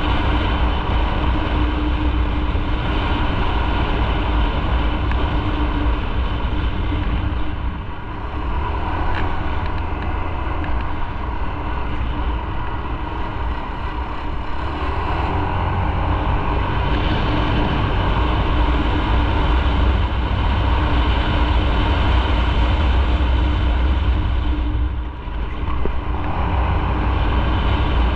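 Motorcycle engine running steadily under way, with a deep rumble and wind rushing past. The sound drops briefly about three-quarters of the way through, then picks up again.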